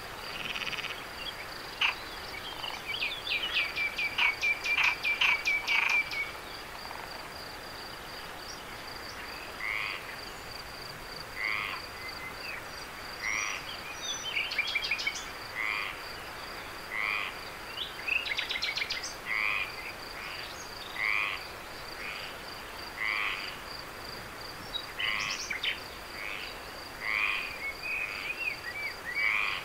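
Night chorus of frogs: a short call repeating every second and a half or so, with a louder run of rapid clicking croaks a couple of seconds in, over a steady high-pitched insect trill.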